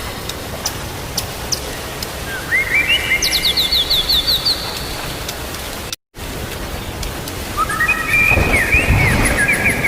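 White-rumped shama (murai batu) calling in two quick runs of short, falling whistled notes over a steady hiss of rain. There is a brief dropout in the middle, and a low rumble of thunder builds near the end.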